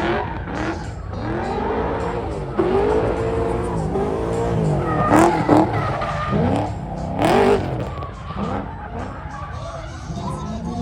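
Car engines revving again and again, each rev rising and falling in pitch, over a steady low rumble, with two louder noisy bursts about five and seven seconds in.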